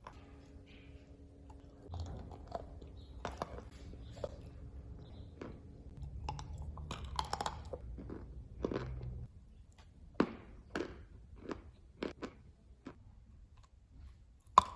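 A person chewing crunchy chalk coated in a creamy paste, with crisp crunches. From about ten seconds in the chews come as separate chomps roughly every half second, then a sharp, loud bite into a fresh chunk of chalk just before the end.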